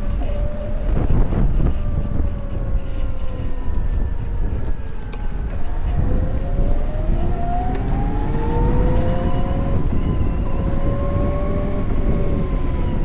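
Electric motorcycle's motor whine under a steady rumble of wind and road noise. The whine falls slowly in pitch, then rises about six seconds in as the bike speeds up again, and levels off near the end.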